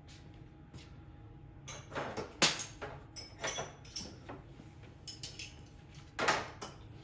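Scattered clinks and knocks of hand tools and hard parts being handled and set down, with a sharp click about two and a half seconds in and another loud knock near the end.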